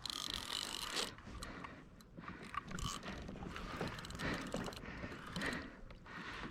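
Fishing reel being cranked: a steady whirr of the gears with many fine clicks, as line is wound in on a hooked fish.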